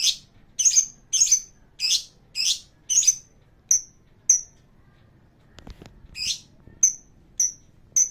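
Lovebird calling in a quick series of shrill, rasping squawks mixed with short high chirps, about two a second. The calls break off for a second or so a little past the middle, with a few faint clicks, then start again.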